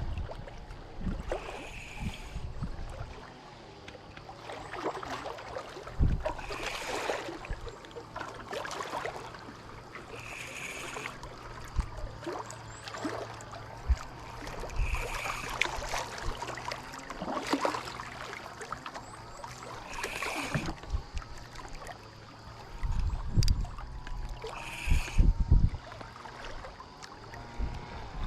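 Sea water lapping and sloshing, with a brief wash of a wave about every four to five seconds and occasional low knocks.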